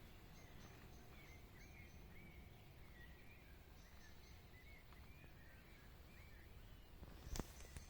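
Faint birdsong in a forest: several birds giving short curved chirps and brief high repeated notes over a low steady background rumble. A single sharp click sounds near the end.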